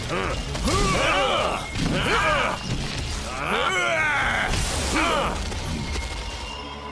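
Cartoon fight sounds: a run of short grunts and cries of effort and pain, about one a second and rising and falling in pitch, over a steady low rumble with crashing hits.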